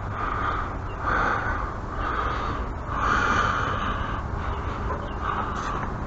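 A person breathing hard close to the microphone: repeated noisy breaths, roughly one a second, over a steady low rumble.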